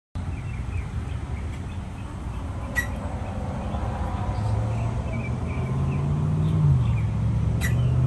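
Birds chirping in short, repeated high notes over a steady low rumble of traffic. About halfway a vehicle's low engine hum comes in and rises in pitch, and two sharp clicks stand out, one near the start and one near the end.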